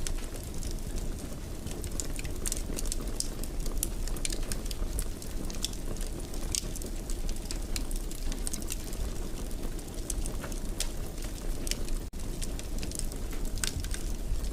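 Wood fire crackling in a fireplace: a steady low rush of burning with frequent sharp crackles, several a second.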